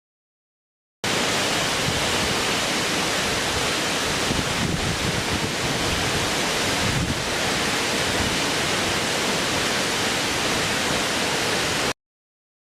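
Steady, even rushing noise of a nature ambience, like falling water. It starts suddenly about a second in and cuts off abruptly near the end.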